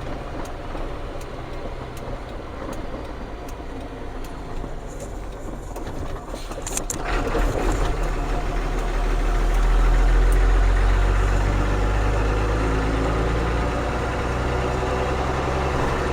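Ford CF7000's 6.6-litre Brazil diesel engine running at low revs, then building up about seven seconds in as the truck pulls away, loudest about ten seconds in, then running steadily.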